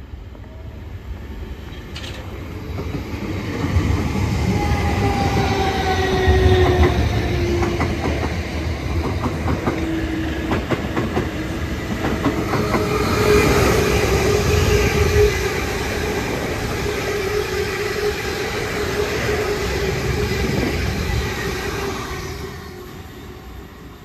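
Electric multiple-unit train passing along the platform, its wheels clattering over the rail joints under a gently falling motor whine. It builds up over the first few seconds, stays loud and fades near the end.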